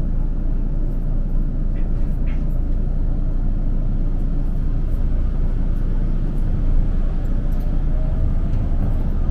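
Kagoshima City streetcar running on its rails, heard from inside the car: a steady low rumble with a few light clicks, a faint rising motor whine near the end, and a sharp click at the very end.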